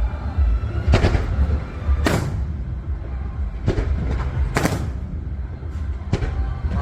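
Fireworks shells bursting overhead, about five loud bangs that each ring out briefly, over a steady low rumble.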